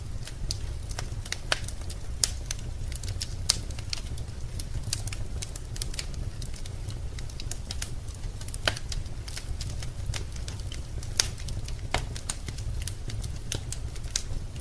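Wood fire crackling in a fireplace: irregular sharp snaps and pops, a few louder ones, over a steady low rumble.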